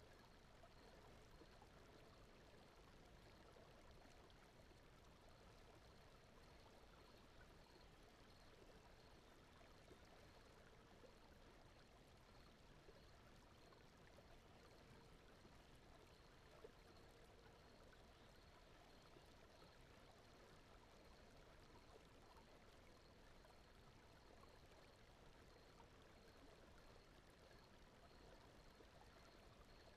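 Very faint, steady rushing noise bed of a sleep soundscape, with a faint high tone pulsing a few times a second throughout.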